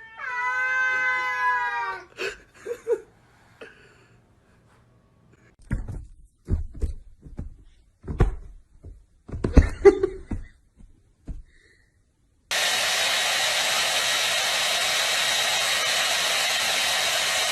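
A cat's long, slightly falling meow, then scattered knocks and thumps, then a steady rushing noise like a blower that starts abruptly and runs on.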